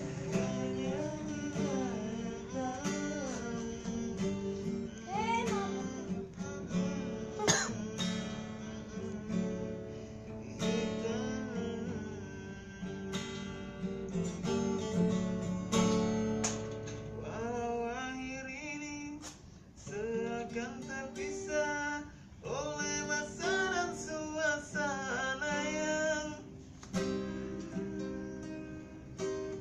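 A Bugis song: a voice singing a flowing, gliding melody over plucked acoustic guitar.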